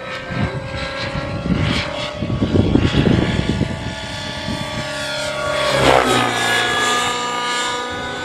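Nitro-powered Synergy N9 RC helicopter flying aerobatics: the high-revving glow engine and rotor whine, rising and falling in pitch as it manoeuvres. A gusty low rumble swells about two to three seconds in, and the pitch dips and climbs again near six seconds.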